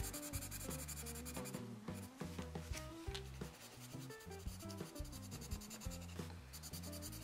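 Pencil scratching and rubbing on paper as an area is coloured in, over background music with a changing melody.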